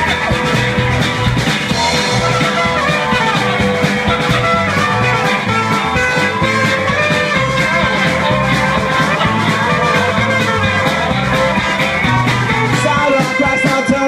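Live rock band playing an instrumental passage of a song, with a steady drumbeat under bass and sustained instrument lines.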